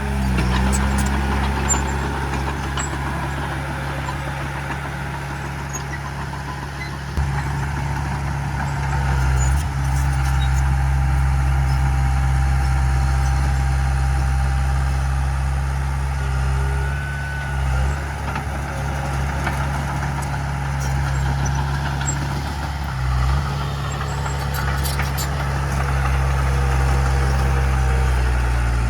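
Heavy diesel engine of earthmoving machinery running steadily, its note shifting briefly a few times as the load changes.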